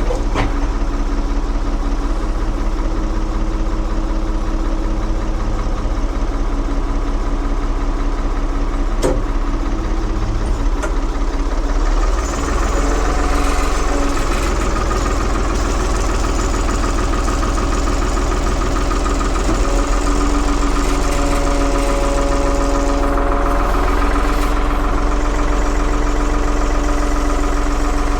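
1975 Ford 550 backhoe's engine running steadily. After a brief dip about twelve seconds in, higher steady tones join the engine sound.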